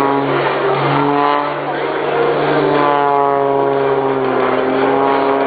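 MX Aircraft MX2 aerobatic monoplane's piston engine and propeller during tumbling manoeuvres, the note falling and climbing again several times as the power and airspeed change.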